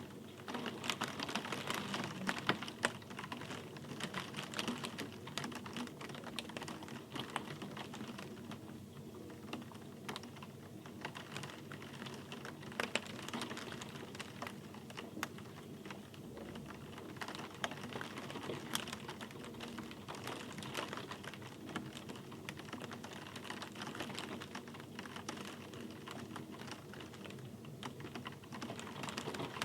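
Rain falling, its drops landing as dense, irregular ticks on a hard surface, a little busier near the start and end.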